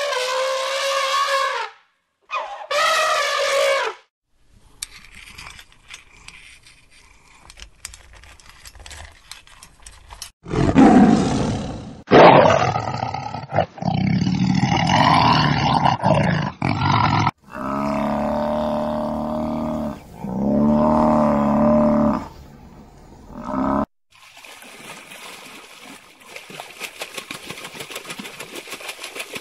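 Elephant calling twice, then a lioness roaring and growling in a run of loud, long calls. Near the end it gives way to a steady rush of water.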